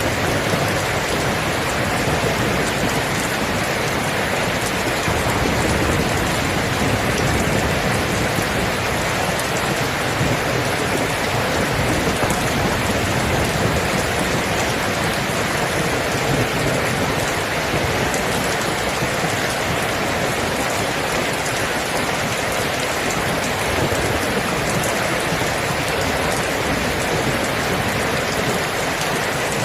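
Steady, continuous rain falling, an even hiss of raindrops on surfaces with no break or change.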